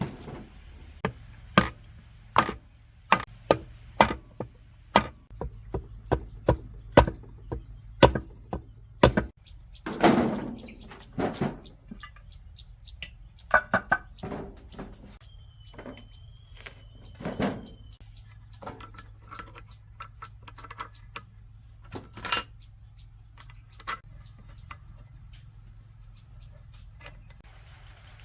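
A run of sharp taps and knocks, one every half second or so, thinning out after about twelve seconds, from hand work on engine parts. A steady high insect trill sounds behind them from about five seconds in.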